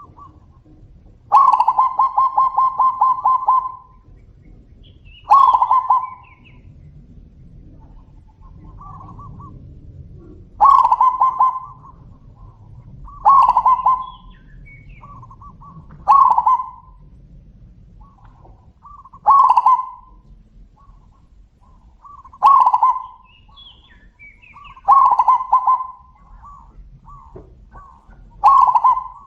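Zebra doves (perkutut) cooing back and forth: loud rolling coos about every three seconds, the first one long and trilled, with fainter coos at the same pitch in between.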